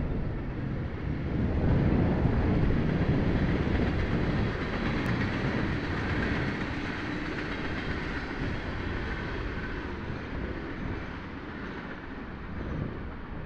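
Union Pacific local freight train passing: two diesel locomotives and covered hopper cars giving a steady rumble, loudest a couple of seconds in, then slowly fading as the train moves away.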